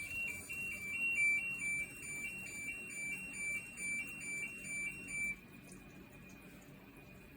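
Iris Ohyama IAW-T606-B washing machine's electronic beeper playing its short notification tune: high, pure beeps stepping between two pitches about four times a second, stopping about five seconds in.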